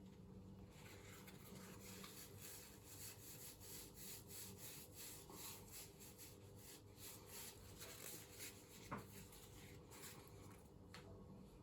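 Near silence: room tone with a low steady hum and faint soft clicks, one a little louder about nine seconds in.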